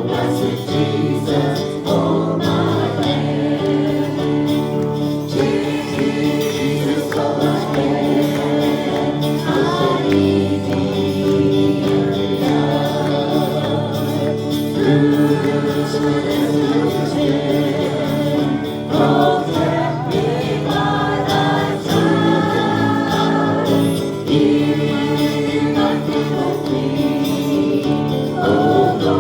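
Gospel hymn sung by a group of voices, steady and continuous.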